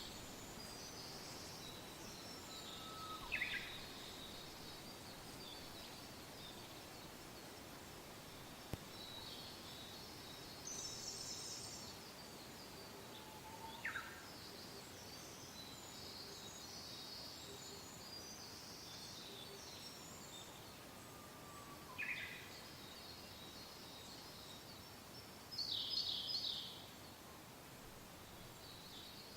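Several wild birds singing and chirping over a soft, steady wind hiss. One bird gives a short falling call three times, several seconds apart. The loudest moment is a brief burst of high chirping a little before the end.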